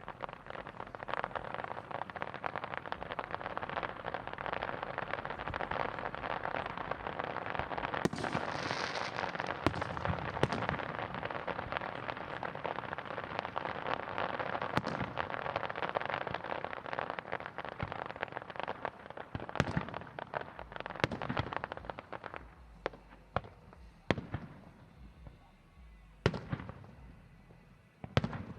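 Aerial fireworks display: a dense run of crackling with sharp pops for about twenty seconds, thinning out near the end into a few separate bangs.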